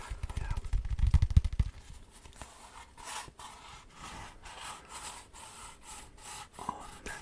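Close-miked rubbing and scraping: heavy, low, thudding strokes for about the first second and a half, then softer, fainter brushing strokes.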